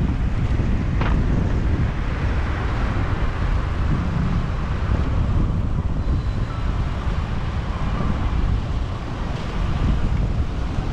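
Wind buffeting the microphone of a moving motorbike, over a steady low engine and traffic rumble, with a brief sharp sound about a second in.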